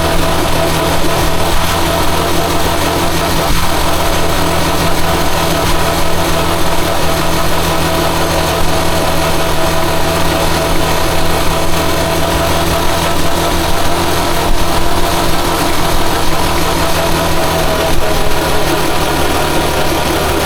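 Rusi Chariot 175 motorcycle engine running at a steady, even speed.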